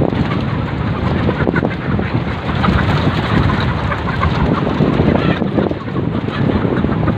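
A large flock of laying hens clucking and calling together in a dense, steady din.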